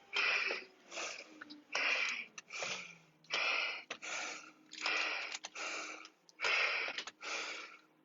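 Heavy, fast breathing of a man out of breath from climbing stairs, each breath in and out audible in a quick, even rhythm.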